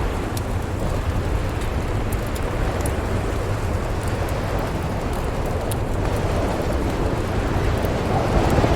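Storm wind blowing steadily with a deep low rumble, swelling in a gust near the end, over the faint scattered pops and crackles of a wood fire.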